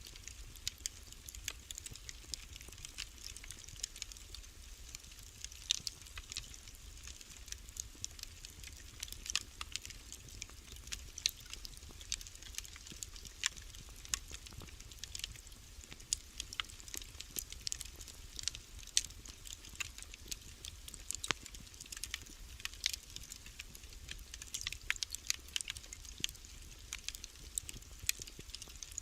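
Wood fire crackling, with many small sharp pops and snaps at irregular intervals over a low, steady rumble.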